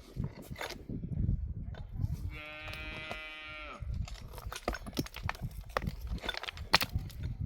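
A sheep gives one long, steady bleat about two seconds in. After it come scattered sharp clicks and knocks, the sharpest near the end.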